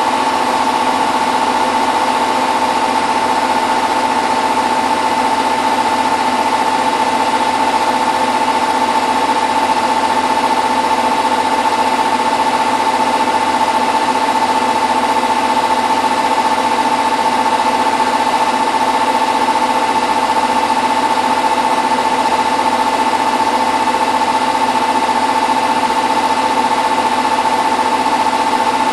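Hotpoint WT960 washing machine in its 1600 rpm final spin, the drum spinning at a steady speed with an even high-pitched motor whine over a rushing hum.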